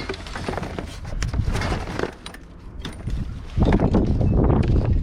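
Rummaging through a pile of discarded household junk: scrap items clattering and clinking against each other in short knocks. About three and a half seconds in, a louder low rumbling noise joins in.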